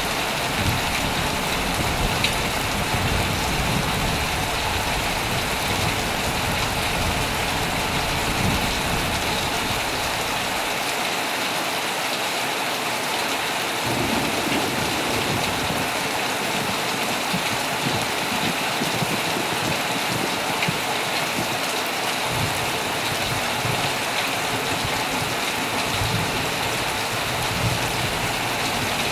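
Heavy rain falling steadily on a tent, with a low rumble of thunder that fades out about a third of the way through and comes back in patches.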